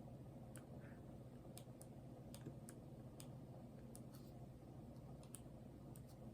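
Faint, irregular light clicks, about two a second, of a diamond painting pen tapping drills onto the canvas, over a low steady room hum.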